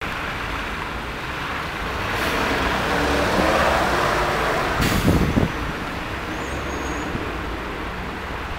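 Road traffic heard through a street surveillance camera's built-in microphone: a vehicle's sound swells over a few seconds and fades again, with one short sharp knock about five seconds in.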